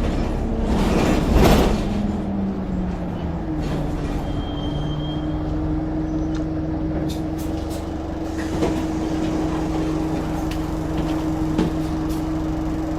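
Interior of a double-decker bus under way: a loud hiss of air about a second in, then the engine note falls and holds as a steady drone.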